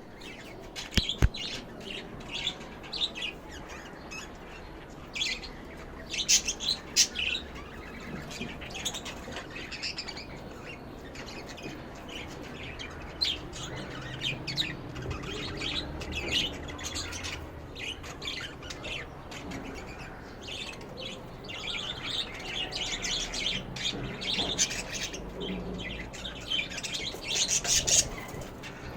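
Lovebirds chirping and chattering, a steady stream of short, high calls with louder outbursts about a second in, around six to seven seconds in, and near the end.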